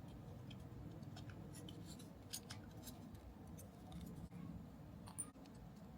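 Faint small snips and clicks of kit parts being cut and handled during model assembly, with two sharper snaps about two and five seconds in, over a low steady hum.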